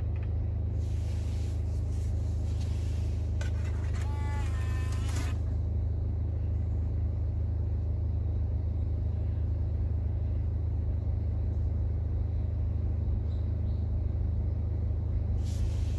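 BMW 320d's four-cylinder diesel engine idling, a steady low rumble. About four seconds in, a short run of electronic tones steps upward, with brief bursts of hiss around it.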